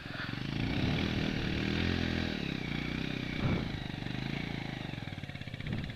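Bajaj Pulsar 200's single-cylinder engine revving up, held, then easing off about two seconds in, followed by uneven lower running with a short blip of throttle; the revving comes as the bike is worked out of mud.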